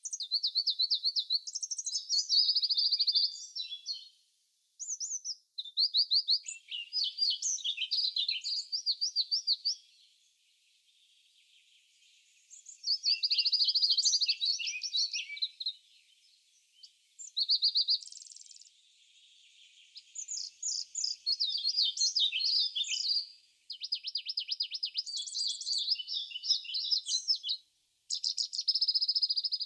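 Songbird song: phrases of rapid, high-pitched chirps and trills, each lasting one to four seconds with short pauses between.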